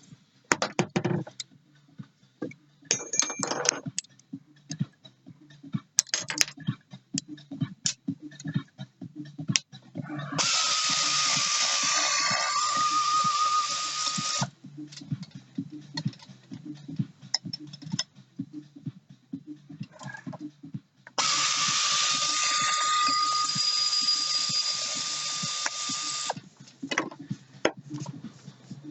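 A power tool runs twice during teardown of a Yamaha XLT jet ski engine: about four seconds starting roughly ten seconds in, then about five seconds starting roughly twenty-one seconds in. Each run starts and stops abruptly and carries a steady whine. Between the runs there are scattered light clicks and clinks of tools and parts.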